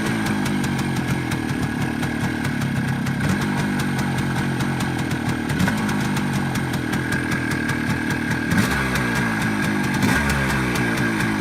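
Motorcycle engine idling steadily while it warms up just after a cold start; it runs very loud.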